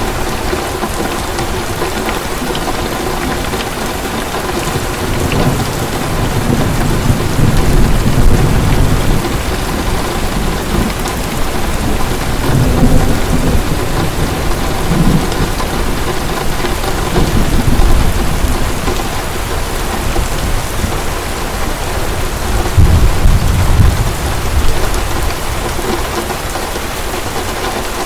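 Heavy rain pouring steadily, with low rolls of distant thunder rumbling in and out several times.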